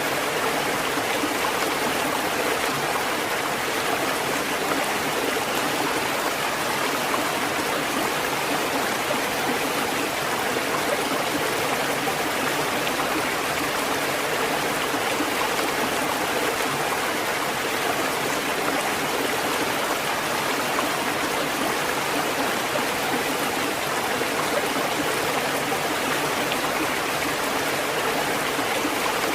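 Steady rushing water: an even, continuous wash with no rise and fall of separate waves.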